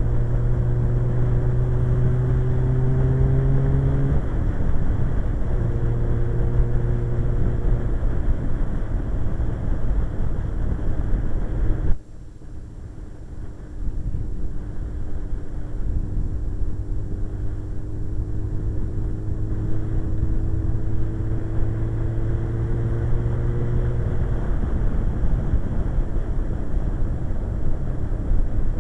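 Suzuki GSX-R 1100's inline-four engine running under way with heavy wind rush. The engine note climbs in pitch, drops as if for a gear change, climbs again and then holds steady. The sound drops out abruptly for about two seconds near the middle.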